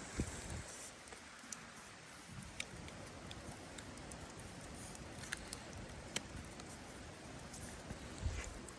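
Faint steady hiss with scattered small clicks and ticks, and a low thump with a sharper click near the end.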